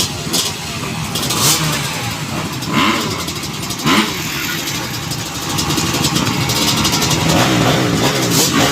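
Motocross dirt bike engine running and revving up and down, with a few short sharper surges.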